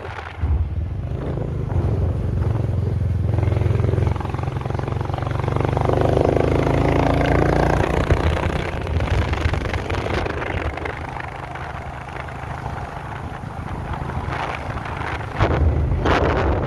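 A motor vehicle's engine running steadily, heard with road noise, getting louder near the end.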